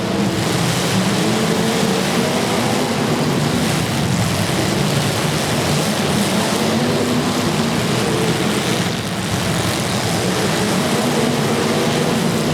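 Several demolition derby cars' engines running loud and revving, their pitches wavering up and down together over a constant roar.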